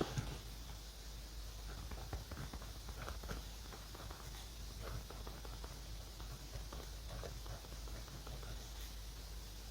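Pen scratching across paper in short, irregular strokes, writing in a notebook, with a light knock right at the start.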